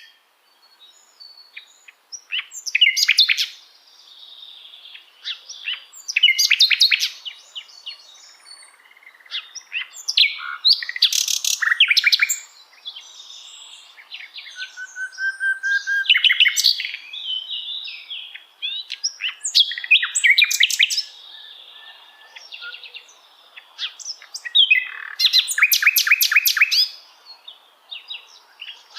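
Common nightingale singing: about six loud, varied phrases separated by short pauses, built from rapid repeated notes and trills. One steady pure whistle comes about halfway through.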